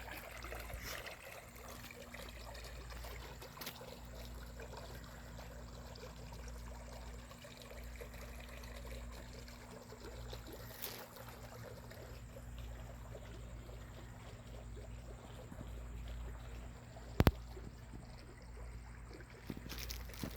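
Floodwater trickling and flowing steadily, with a single sharp click near the end.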